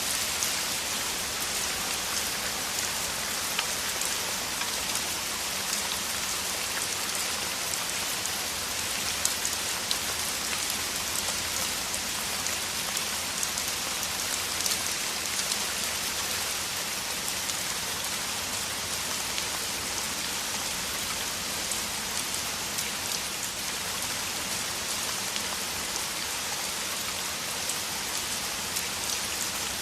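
Heavy rain falling steadily: a dense, even hiss with many fine drops ticking through it.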